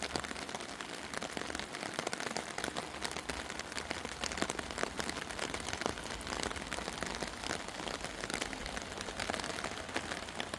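Steady rain falling, with many separate drops ticking sharply on a hard surface over a constant hiss.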